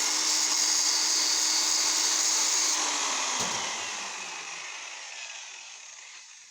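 Rotary polisher spinning up with a high whir and running steadily while its loaded-up buffing pad is cleaned, then switched off about three seconds in and slowly winding down, with a short knock partway through the spin-down.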